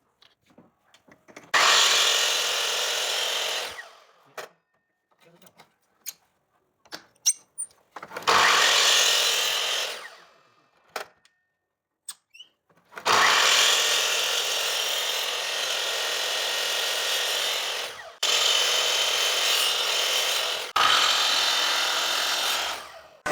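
A handheld power tool working wood in repeated bursts, each two to five seconds long. Short knocks and clicks come between the bursts.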